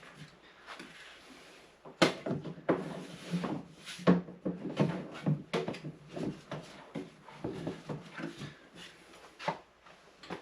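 A quick, uneven run of knocks, clunks and clatters from objects being handled in a small room, loudest about two and four seconds in, dying away near the end.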